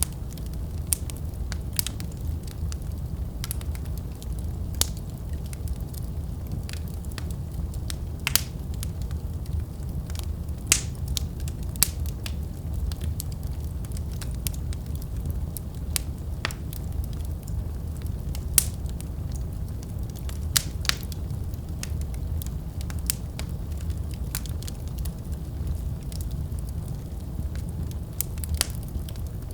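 Fireplace fire crackling: a steady low rumble with sharp pops and snaps scattered at irregular intervals, a few of them much louder than the rest.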